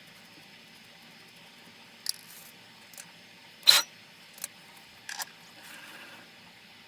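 A few separate sharp clicks and knocks of small metal parts or hand tools being handled, the loudest a short clank about midway, then a brief faint rustle.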